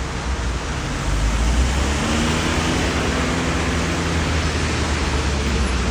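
Wind rushing over the microphone while riding a scooter through traffic, a steady noisy rumble that grows louder about a second in. A faint engine hum of nearby traffic joins about two seconds in.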